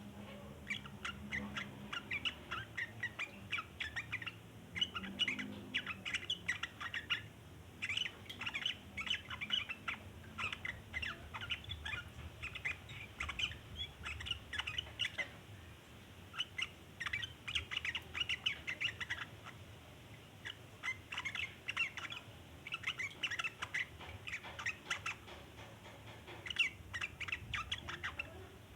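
Yellow-vented bulbul (trucukan) giving its long rapid chattering call (ngeriwik): fast runs of short, sharp notes in phrases several seconds long, broken by brief pauses.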